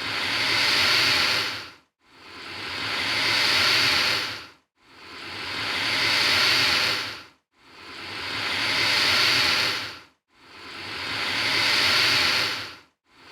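Alligator hissing in a steady, repeating series: about five long breathy hisses, each swelling over a second or so and then dying away, with short silences between them.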